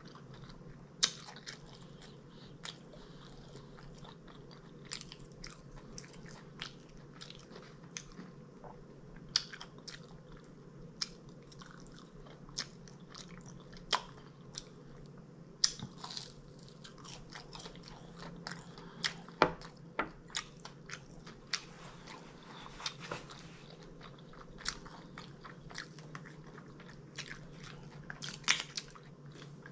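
A person chewing and biting into food, with irregular sharp crunches and mouth clicks about every half second to a second over a steady low hum.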